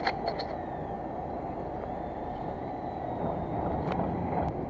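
Steady low rumble aboard a fishing boat, with a few sharp clicks right at the start and a short tick near the end.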